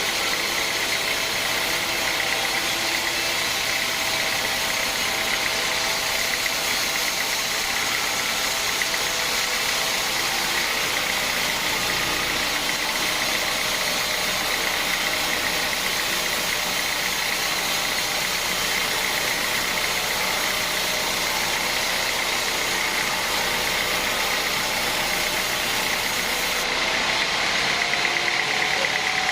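Sawmill machinery running steadily: a constant mechanical noise with a high, even whine. A tone rises slightly and the noise gets a little louder near the end.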